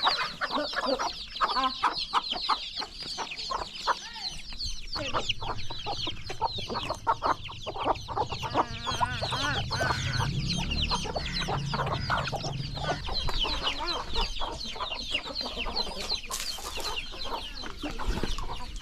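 Chickens clucking, with a busy chatter of high, short chirps throughout. A low hum sits underneath for several seconds in the middle.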